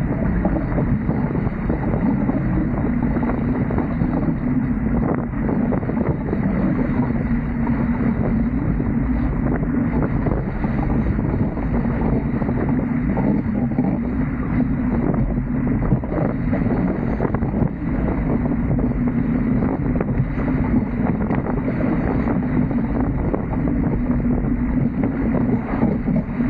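Steady wind rumble on the microphone of a camera aboard a Dart 18 sailing catamaran under way, mixed with the rush of water along the hulls.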